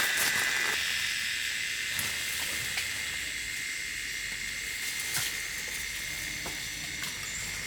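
A steady, high-pitched insect drone, with a few faint clicks scattered through it.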